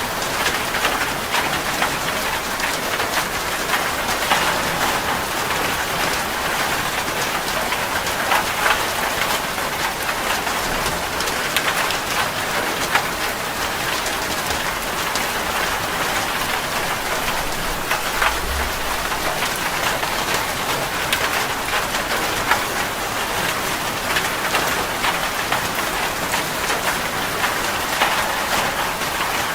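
Heavy rain drumming steadily on a metal roof, a dense patter of drops. A short low rumble comes a little past the middle.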